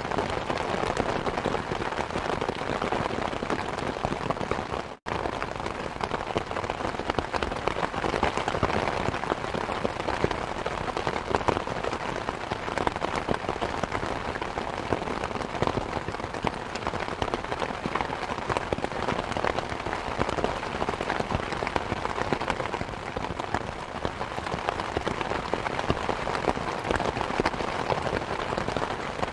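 Steady rain mixed with a crackling wood fire, many small pops over an even hiss. The sound cuts out for an instant about five seconds in.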